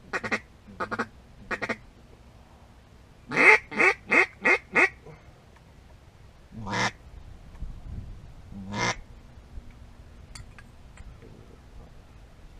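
Mallard-style duck quacking: three short single quacks, then a quick run of five quacks falling in pitch, then two longer quacks a couple of seconds apart.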